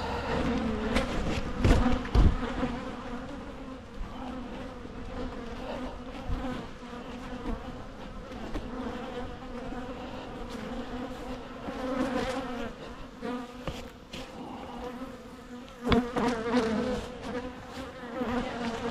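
Honeybees buzzing around an open hive, a steady hum of many bees, agitated during the summer dearth. A few knocks and bumps come near the start and again near the end.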